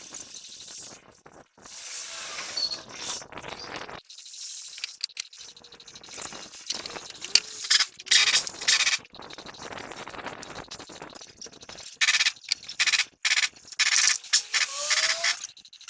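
Hand work on metal parts: irregular bursts of metal scraping and clinking, with a couple of short squeaks.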